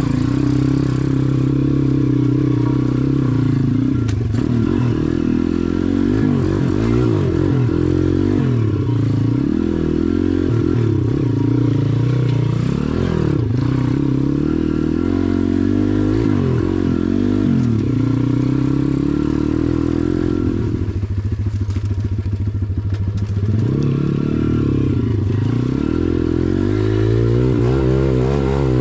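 SSR pit bike's small single-cylinder four-stroke engine, ridden with the throttle opening and closing, the engine note climbing and dropping over and over. About 21 seconds in it drops to a low, even chugging for a couple of seconds before revving up again.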